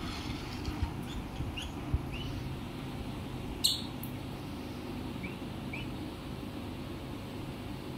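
Short rising chirps from small animals, repeated several times over a steady low rumble, with one sharper, louder chirp about halfway through.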